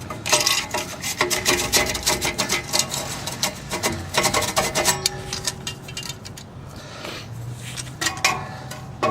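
Rapid, repeated rasping and scraping strokes of a hand tool working metal on a car's exhaust. The strokes ease off about five seconds in and pick up again near the end.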